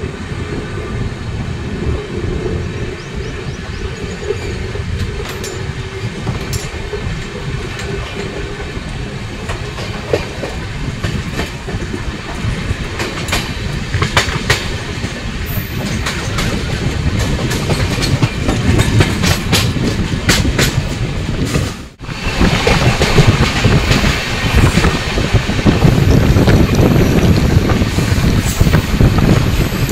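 Coalfield Express passenger train running along the line, its wheels clattering over the rails under a steady rumble. There is a brief sharp dropout about two-thirds through, and the running noise is louder after it.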